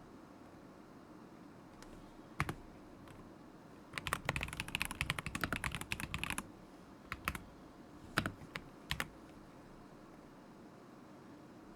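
KZZI K75 Pro mechanical keyboard with linear switches being typed on. A single keystroke, then a quick run of clacking keys lasting a couple of seconds, then a few scattered keystrokes.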